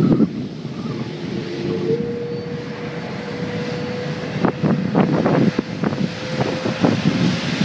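Boeing 787 jet engines running, a low rumble with a steady tone, with gusts of wind buffeting the microphone in the second half.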